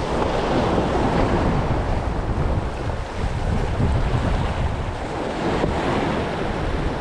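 Wind buffeting the microphone over the steady wash of sea waves against the shore.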